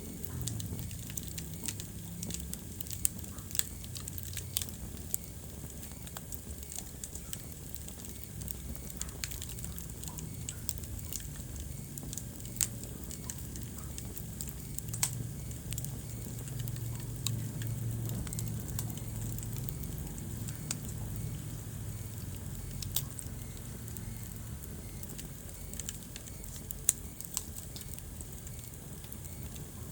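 Wood fire burning in a fireplace: irregular crackles and sharp pops, a few louder than the rest, over a low steady rumble.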